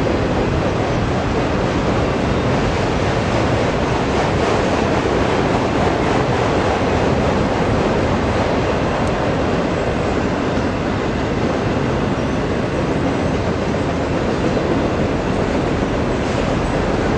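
Cars of a passing freight train rolling by, a steady loud rumble of wheels on the rails.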